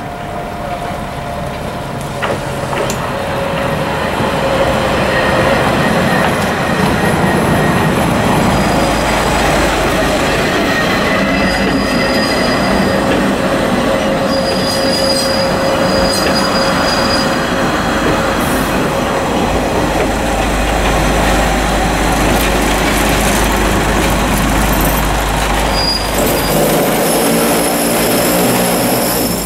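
Minami Aso Railway trolley train running on the track close by: a loud, steady rumble of the cars that builds over the first few seconds, with the wheels squealing in steady high tones through much of the run. A low, even hum joins about four seconds before the end.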